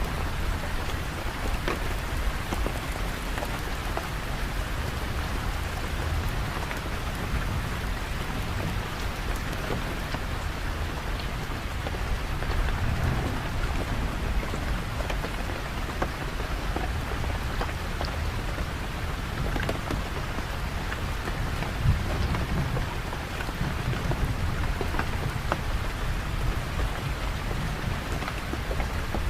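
Steady heavy rain, a dense hiss with scattered sharp drop hits, over a low rumble that swells now and then like distant thunder. One drop hit stands out louder about two-thirds of the way through.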